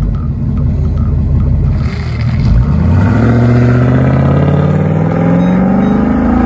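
Vehicle engine rumbling low, then revving up with its pitch rising steadily from about three seconds in.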